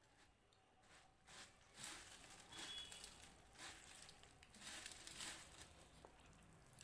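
Faint, irregular crunching and crackling of puffed rice (muri) mixed with chanachur, in short bursts.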